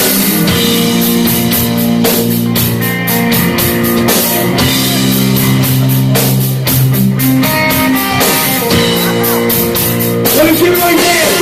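A live metal band playing: guitars and bass holding low chords over a drum kit. Wavering, bending high notes come in near the end.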